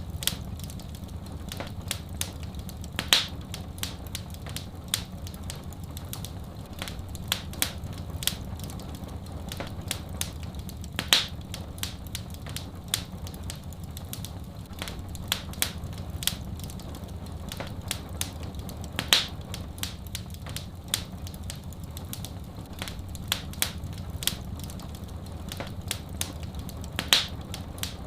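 Wood fire in a fireplace crackling, with irregular small snaps and a louder pop about every eight seconds, over a low steady rumble.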